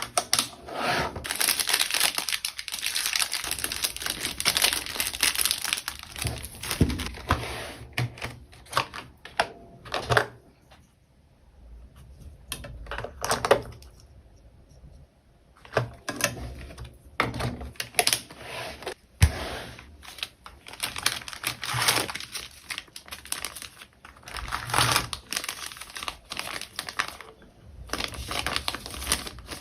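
Plastic packaging crinkling and rustling as small orders are packed by hand, mixed with light clicks and taps. It is dense for the first ten seconds, dies down to a quiet pause for a few seconds, then comes back in scattered crinkles and sharp clicks.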